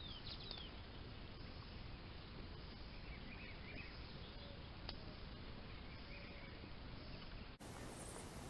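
Faint outdoor ambience: a steady low noise with a few faint bird chirps, and a single sharp click about five seconds in.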